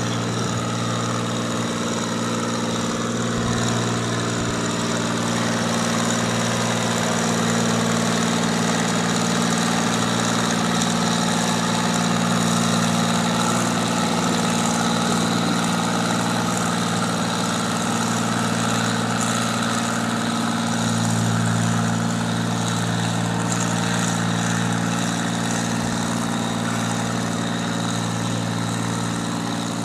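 John Deere 4020 tractor engine running steadily at one held pitch, pulling the weight-transfer sled down the track.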